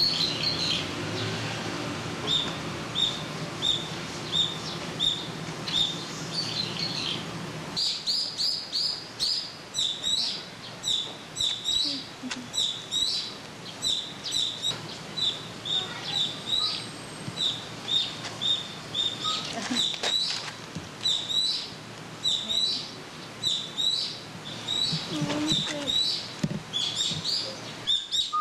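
Small birds chirping in short, sharp calls repeated one or two times a second. A steady low hum underlies the first several seconds and then stops.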